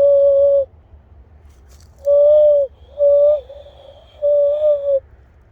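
Hollow, cooing hand whistle blown through cupped hands as an imitation bird call. A held note stops about half a second in, then come three shorter notes, each dipping in pitch as it ends.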